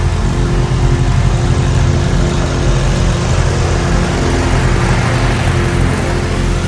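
Engine of a snowplowing vehicle running steadily at an even speed.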